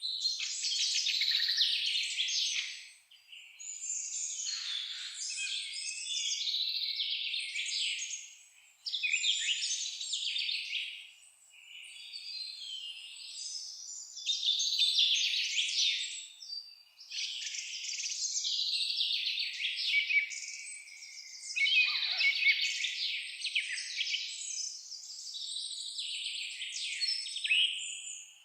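Songbirds singing: dense chirping and trilling song in phrases of a few seconds with short pauses between them.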